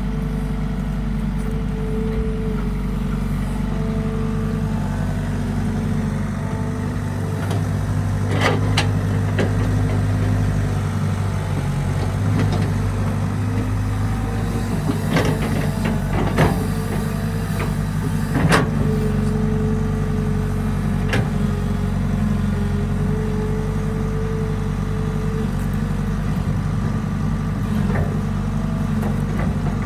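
Heavy machinery diesel engine running steadily, with a handful of sharp metallic clanks in the middle stretch.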